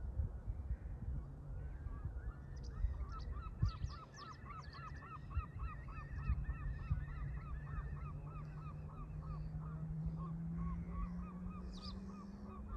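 Canada geese honking, one call repeated quickly and evenly at about three a second through most of the stretch, over wind rumble. A faint low hum rises slightly in pitch underneath.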